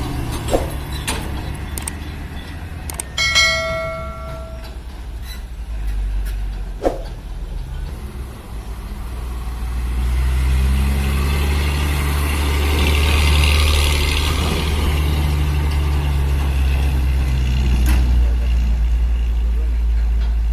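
Heavy truck's diesel engine running with a low, steady rumble that grows louder about ten seconds in. A brief ringing tone sounds about three seconds in, and there are a couple of sharp clicks.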